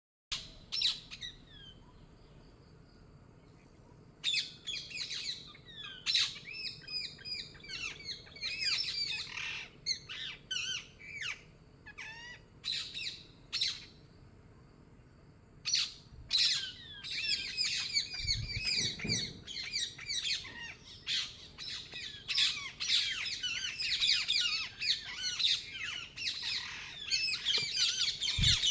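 Parrot squawks and chirps in quick, irregular runs of short calls. There are two short pauses, and the calls come thickest in the second half.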